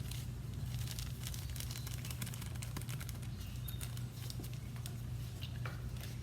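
Light scattered ticks and crinkles of a small bag of orange peel powder being shaken and tapped out over a bowl, busiest in the first couple of seconds, over a steady low hum.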